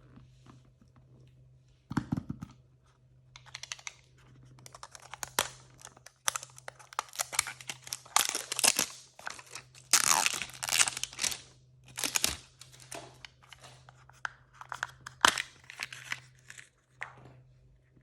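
Plastic blind-bag packaging being torn open and crinkled by hand: a soft knock about two seconds in, then stretches of crackling rustle and tearing that stop near the end.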